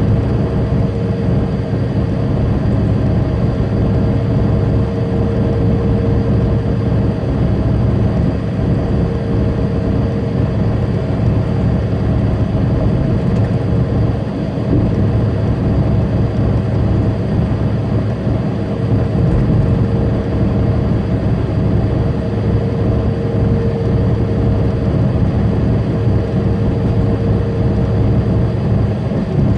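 Tractor-trailer on the highway, heard from inside the cab: a steady drone of the diesel engine and road noise from the tyres, with a constant hum.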